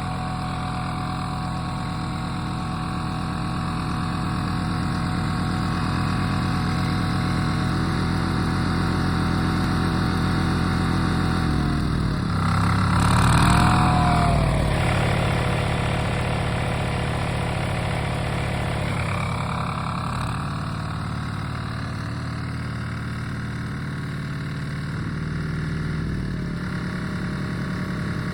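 Power tiller's single-cylinder diesel engine chugging steadily as the walking tractor is driven, getting louder for a couple of seconds about halfway through.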